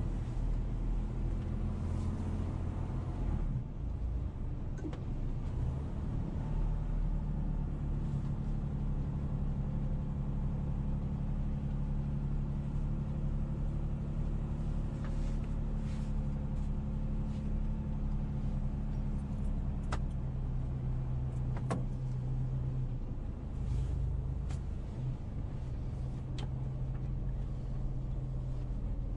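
A motor vehicle's engine running steadily with a low hum, and a couple of sharp clicks about two-thirds of the way through.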